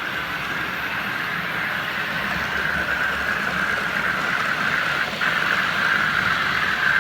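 OO gauge model trains running on the layout's track: a steady mechanical running noise from motor and wheels, getting a little louder about five seconds in.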